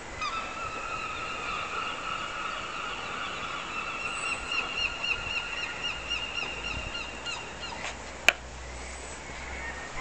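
Gulls calling: a long run of rapid repeated notes that lasts most of eight seconds, followed by a single sharp click near the end.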